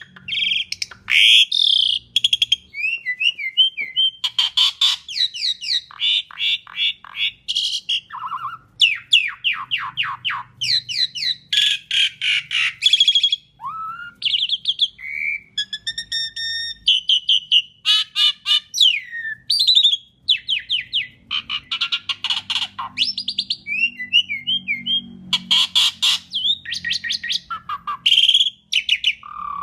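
Asian pied starling (jalak suren) singing without pause: a varied string of loud whistles, fast rattling runs of repeated notes and short harsh chattering calls, one phrase after another with brief gaps.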